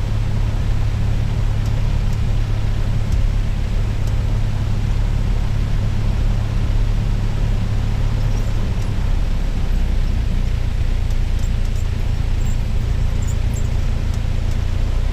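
Cessna 172's single piston engine running steadily, heard inside the cabin, during the pre-takeoff engine run-up on the ramp. There is a slight shift in the engine's note about two-thirds of the way through.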